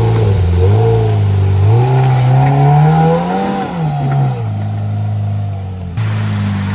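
Side-by-side UTV engine revving under throttle, its pitch climbing for about three and a half seconds, then dropping back and settling to a steady lower drone.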